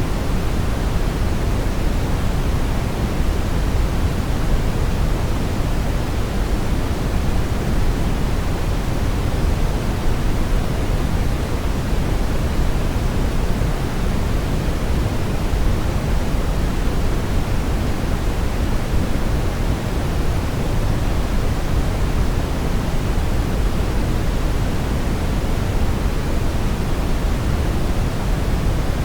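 Steady brown noise: an even, unchanging rumbling hiss, loudest in the bass and falling away toward the treble.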